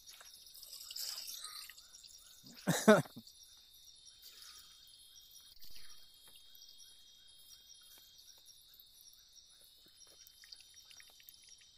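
Forest insects chirping steadily at a low level, with faint scattered drips. One brief, loud voice-like call cuts across about three seconds in.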